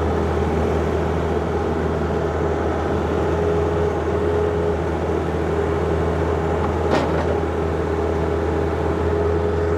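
John Deere 50ZTS mini excavator's diesel engine running steadily under digging work, with a steady hum and one short click or knock about seven seconds in.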